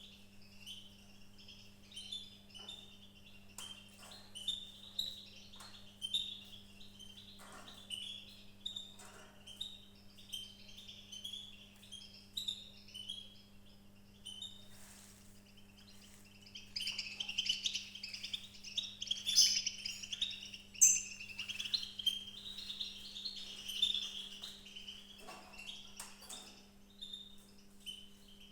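Small birds chirping: many short, high chirps, busier and louder for several seconds in the middle, over a steady low electrical hum.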